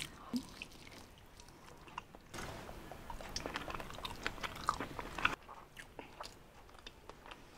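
A person chewing lechon (whole roast pig), its crisp skin and soft meat: faint crunches and wet mouth clicks that thin out about two-thirds of the way in.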